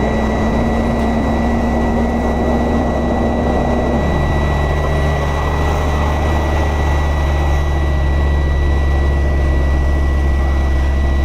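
Heavy diesel engine running steadily with a high, steady whine over its low hum; the engine note drops about four seconds in.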